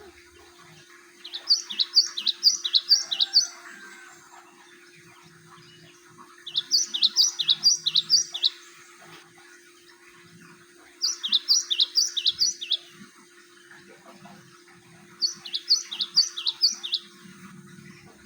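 Cinereous tit (gelatik batu) singing: four bursts of rapid, sharp repeated notes, each about two seconds long, spaced about four seconds apart, as used to lure and train an untrained bird.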